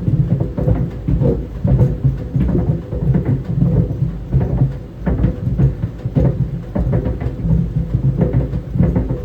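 Tennis balls tumbling in a running clothes dryer: a steady low rumble from the drum, with irregular soft thuds as the balls drop and hit the drum and the steady hum of the motor.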